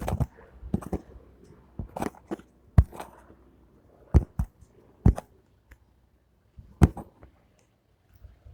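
A series of sharp, irregular clicks and knocks, about a dozen, with no steady rotor sound underneath.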